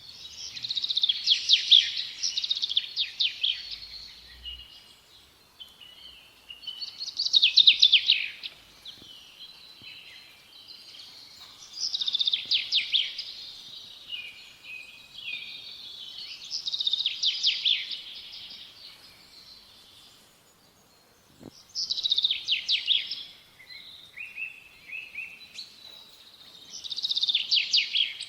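Small songbird singing in repeated phrases, six in all, about every five seconds, each a quick run of rapid trilled notes with softer chirps between them.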